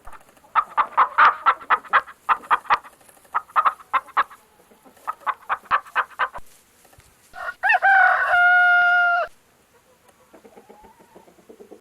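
Chickens clucking in quick runs of short notes, then a rooster crowing once, one held call about two seconds long. Fainter calls follow near the end.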